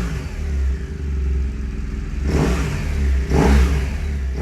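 Motorcycle engine running with a steady low rumble, revved up and back down twice, about two and three and a half seconds in.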